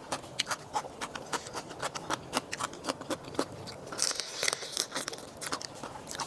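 A person chewing and crunching food close to the microphone, with many sharp irregular crunches and a brief hissy stretch about four seconds in.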